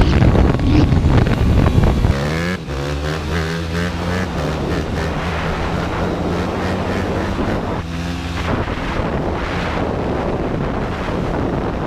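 Dirt bike engine running, with wind buffeting the microphone for the first couple of seconds; after that the engine hum holds steady.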